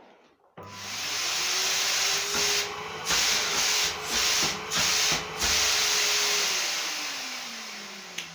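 Samsung SC4140 1600-watt vacuum cleaner switched on for a test run. The motor spins up with a rising whine, runs with a steady rush of air that drops briefly four times, then is switched off and winds down with a falling whine. It works perfectly.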